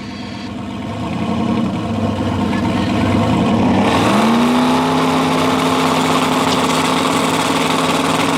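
Two drag cars, a turbocharged LS car and a Mustang, launching and running at full throttle down the strip. The engine noise builds, then about four seconds in an engine note rises and holds at a steady high pitch.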